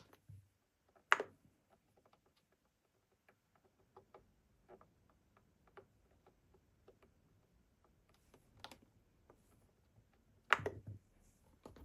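Scattered light clicks and taps, with three sharper knocks about a second in, near nine seconds and near the end.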